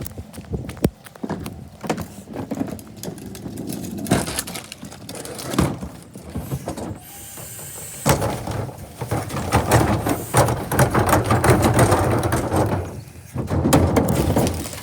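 Electric garbage truck at work: scattered knocks and clatter, a short hiss of air about seven seconds in, then a louder stretch of mechanical clatter.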